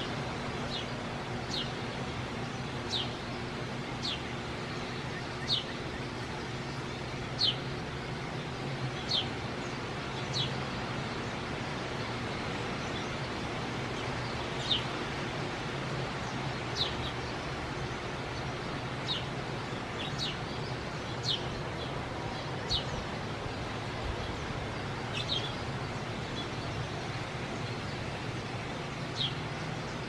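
A small songbird gives single sharp chirps, each dropping quickly in pitch, every second or two, over a steady low background hum.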